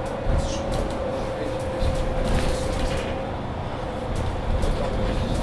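Interior sound of a Mercedes-Benz Citaro C2 hybrid city bus under way: the drivetrain runs with a steady whine over engine rumble and road noise, with occasional light rattles.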